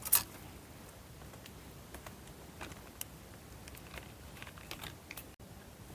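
Dry forest leaf litter crackling faintly in sparse, irregular small clicks, with one sharper click at the start.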